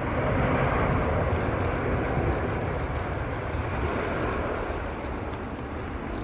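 Jet engine noise of a Qatar Airways Airbus A350-900 with Rolls-Royce Trent XWB engines on its landing, a steady rushing noise that is loudest early and slowly eases off.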